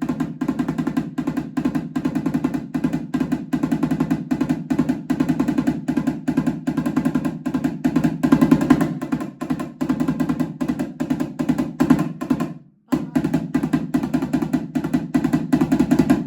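Congas played with rapid, even hand strikes, standing in for the Japanese taiko drum part of the piece; the drumming stops briefly about 13 seconds in, then resumes.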